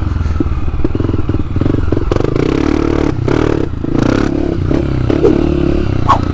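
Dirt bike engine running while the bike is ridden, with scattered rattles and knocks from the bike.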